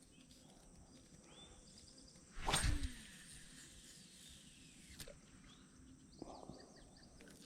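Spinnerbait cast with a baitcasting rod and reel: a sudden swish about two and a half seconds in, followed by a fading whir as line pays out from the reel.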